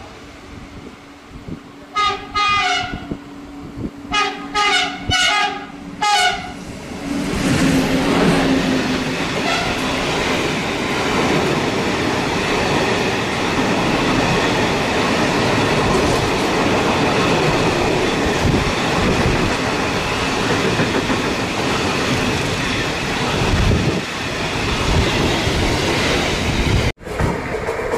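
Freight locomotive horn sounding short blasts, two and then four in quick succession, as it approaches. Then the freight train of container flat wagons passes close by with loud, steady wheel-on-rail noise and rattling, which cuts off abruptly near the end.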